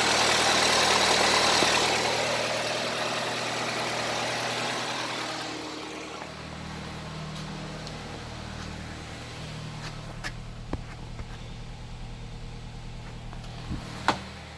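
2007 Nissan Sentra's four-cylinder engine idling. It is louder at first and settles to a quieter, steady idle about six seconds in, with a few light clicks near the end.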